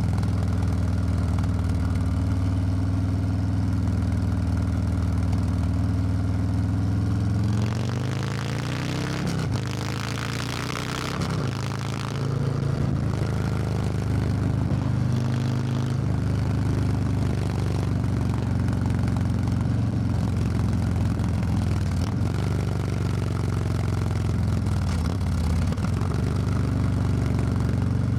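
Harley-Davidson Low Rider S V-twin engine running steadily, then about eight seconds in its pitch climbs for a few seconds under throttle with a rush of noise, before settling back to a steady note for the rest of the ride.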